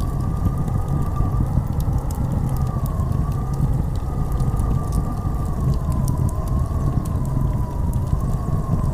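Blizzard wind howling: a deep, steady rumble with a whistling tone that wavers slowly up and down, and sparse faint ticks.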